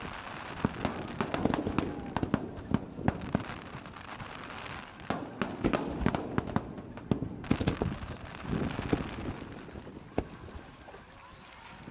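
Fireworks display: many sharp bangs and crackles coming in volleys with brief lulls between, thinning out near the end.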